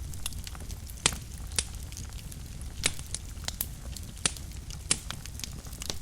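Wood fire burning in a fireplace, crackling, with irregular sharp pops over a low, steady rumble of flame; the loudest pops come about a second in and near three, four and five seconds.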